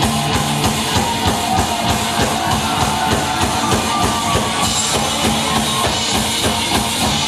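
Live punk rock band playing a fast song, with a driving drum kit to the fore over bass and guitars.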